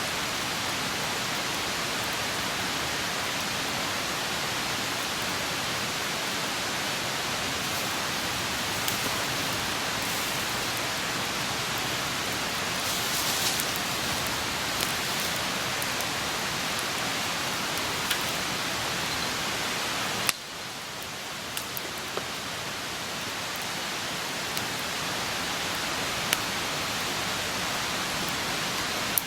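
Wood campfire burning: a steady hiss of flames with scattered crackles and sharp pops. About twenty seconds in, a sharp pop comes with a sudden drop in the hiss, which then slowly builds back.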